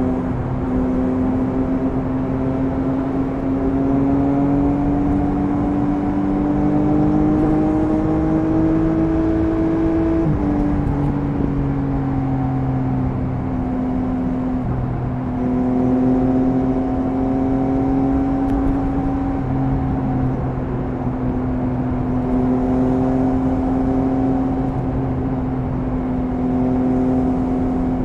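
Triumph Speed Triple 1050 RS inline-three engine at cruising speed, its revs rising slowly for about ten seconds. A quick upshift then drops the pitch, and the engine runs nearly steady with slight throttle changes.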